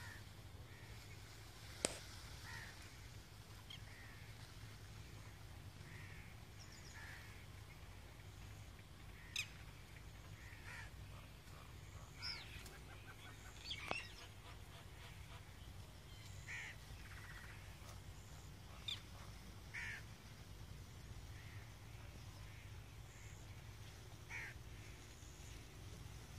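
Birds calling every few seconds, short separate calls, with a few sharper, louder notes and a low steady hum underneath.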